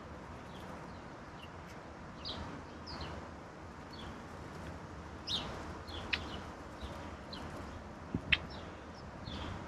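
Wild songbirds calling with many short, scattered chirps, over a steady low background noise. There is a sharp tap about 6 seconds in and two louder taps close together around 8 seconds in.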